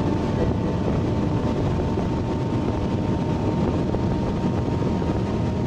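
G-Power-tuned BMW M6's V10 engine running at high revs under load in seventh gear at over 300 km/h, heard inside the cabin mixed with heavy wind and road noise. A steady, unbroken drone with a faint thin whine above it.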